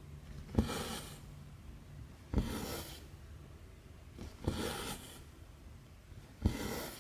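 Needle punching through 11-count cross-stitch fabric with a sharp click, then the thread drawn through with a short swish. This happens four times, about every two seconds.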